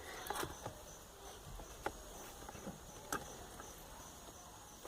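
Faint, steady high-pitched insect chirring in the background, with a few light clicks from wires and a soldering iron being handled.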